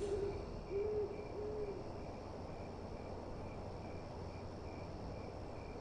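An owl hooting about three times in the first two seconds, over crickets chirping in a steady pulse of about two chirps a second.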